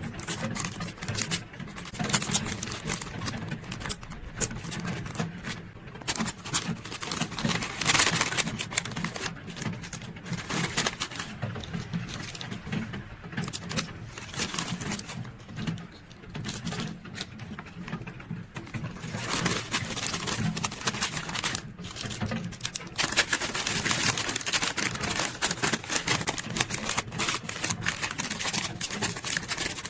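Plastic sleeves and photocards being handled and packed: close-up crinkling, rustling and small taps, over a steady rain-sound white noise.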